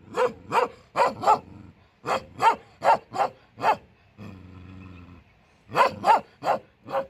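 A dog barking in three quick runs of about four or five barks each, with a short low steady sound between the second and third runs.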